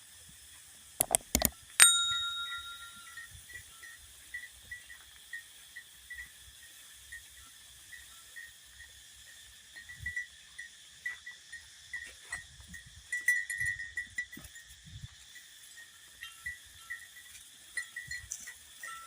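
Rural outdoor ambience: a short high chirp repeating about twice a second, with a few sharp clicks about a second in and a single metallic-sounding ringing strike just after.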